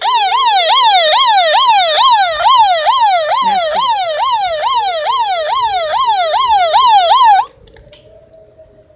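Loud electronic siren warning tone, the Whelen WPS tone, sweeping rapidly up and down about twice a second. It cuts off abruptly about seven and a half seconds in, leaving a faint steady tone underneath.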